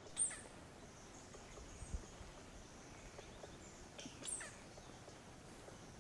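Forest ambience: a bird gives a sharp, high call that falls quickly in pitch, twice, about four seconds apart, over a steady high-pitched hiss. There is a single low knock about two seconds in.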